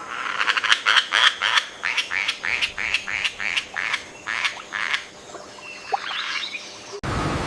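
A frog calling: a quick series of short croaks, about four a second, thinning out after about four seconds. Near the end the sound cuts abruptly to a steady rushing noise.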